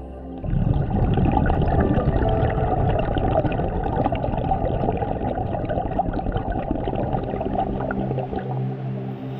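A scuba diver's exhaled bubbles bursting from the regulator and gurgling past the underwater camera. The rush starts suddenly about half a second in and fades near the end.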